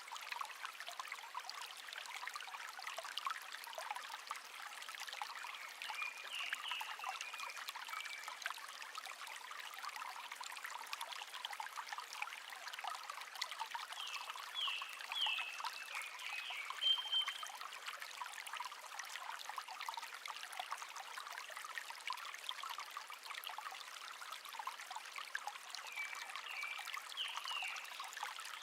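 A small stream trickling and babbling steadily over stones. A songbird chirps short, quick phrases over it in three bouts: a few seconds in, in the middle, and near the end.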